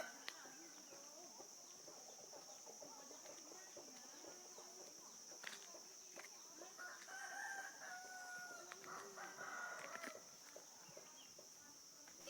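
Roosters crowing faintly in the distance, with a drawn-out crow about seven seconds in, over a steady high-pitched insect drone.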